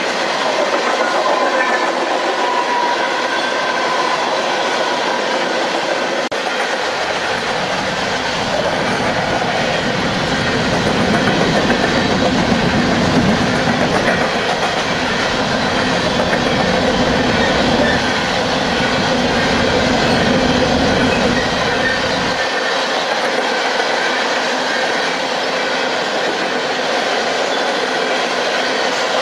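Coal hopper cars of a freight train rolling past close by: steel wheels clicking over rail joints over a continuous rumble. The rumble gets deeper for a stretch in the middle.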